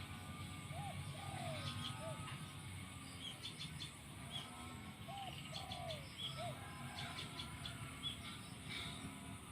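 Caged decoy spotted dove cooing: two phrases of three short rising-and-falling coos, one near the start and one about halfway through. Small birds chirp higher up.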